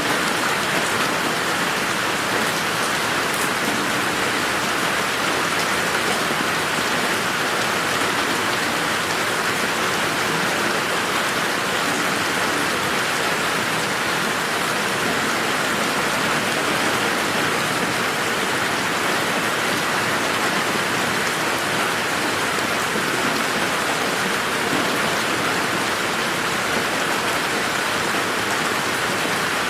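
Steady rain falling on a garden, an even hiss of raindrops hitting surfaces with no thunder.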